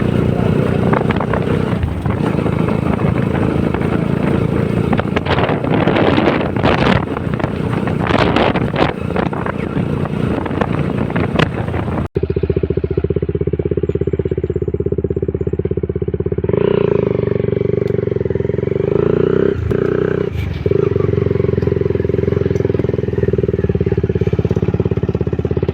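Honda CBR150R's single-cylinder engine running at riding speed, with heavy wind noise on the microphone. About twelve seconds in, the sound cuts abruptly. After that the engine hum is steadier and clearer, with less wind.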